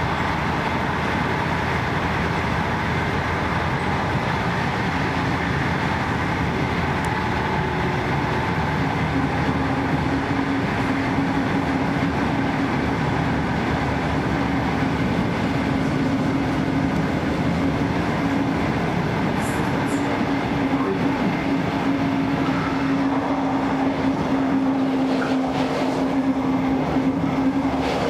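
Train hauled by a class 112.1 electric locomotive running at high speed, heard at the coupling between vehicles: a loud, steady rumble of wheels on rail mixed with rushing air. A steady low hum grows stronger about a third of the way in.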